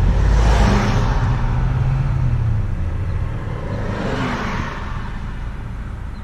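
Car engine and road noise heard from inside a moving car, with a steady low rumble. The noise swells twice, about half a second in and again about four seconds in, the second time with a falling pitch.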